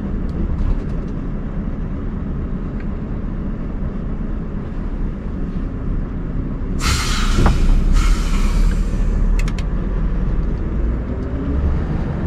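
Scania R580's V8 diesel running steadily at low revs. About seven seconds in, a loud hiss of compressed air is released for about a second and then dies away, followed by a couple of sharp clicks.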